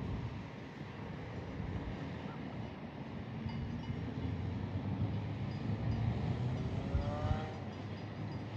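A vehicle driving, with steady low road rumble and wind noise on the camera's microphone. A brief series of rising chirps comes about seven seconds in.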